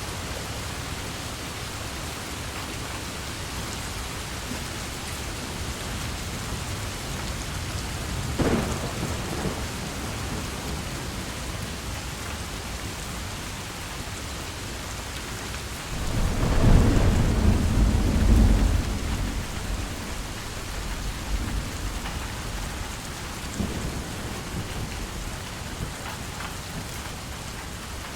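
Steady rain falling, with thunder: a sharp crack about a third of the way in, a long low rumble of thunder just past the middle that is the loudest part, and fainter claps after it.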